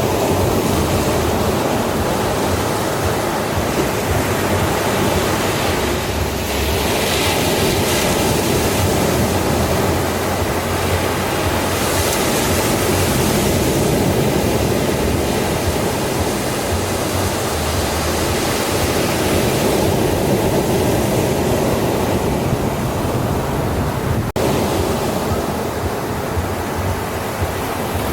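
Ocean surf washing onto a beach: a continuous, dense rush of breaking waves, swelling brighter about a quarter of the way in and again near halfway, with a momentary break a little past three-quarters through.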